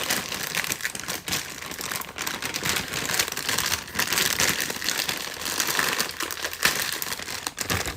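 Steady crinkling and rustling dotted with many small clicks, as broccoli and its packaging are handled.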